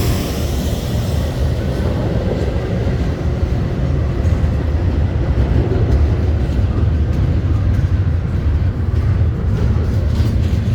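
Train passing close by: a loud, steady, deep rumble of wheels on the rails.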